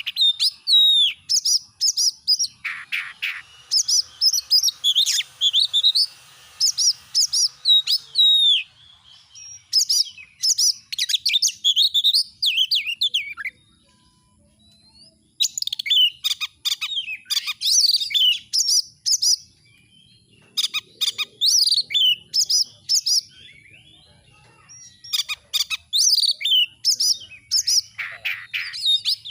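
Oriental magpie-robin (kacer) singing a fast, varied song of sharp whistles, chirps and slurred notes in rapid runs. The song breaks off for about two seconds near the middle, then resumes.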